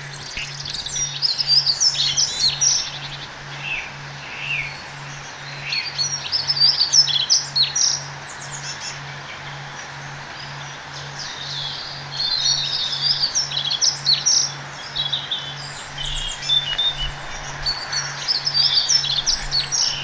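Several birds chirping and calling in bouts, busiest near the start, in the middle and through the second half, over a low, even pulse about twice a second.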